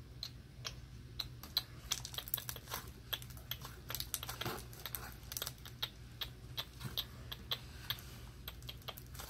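Slime being worked in the hands, giving a quick, irregular run of small clicks and pops.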